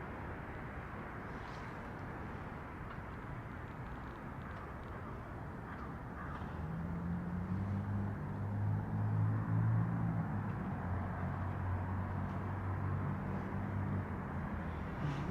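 Steady outdoor traffic noise; about halfway through, a vehicle engine's low steady hum comes in close by and stays, getting a little louder.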